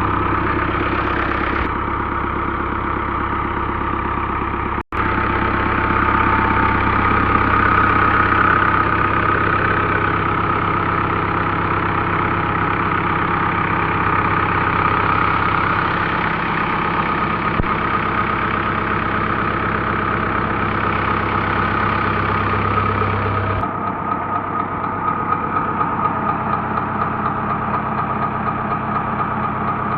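Tractor diesel engine running steadily as it drives a tubewell pump. There is a momentary dropout about five seconds in, and the deep low hum thins out about three quarters of the way through.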